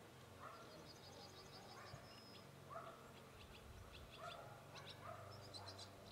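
Faint small birds singing: quick trills of high chirps and short rising calls that repeat about once a second, over a low steady hum.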